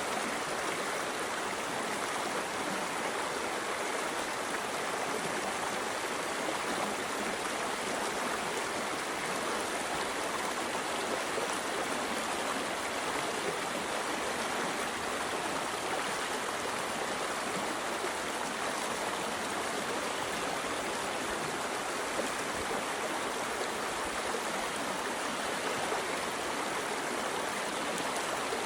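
A stream's water rushing steadily and evenly.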